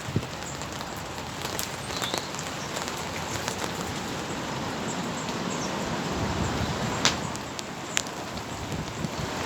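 Steady light rain falling, an even hiss broken by a few sharp ticks.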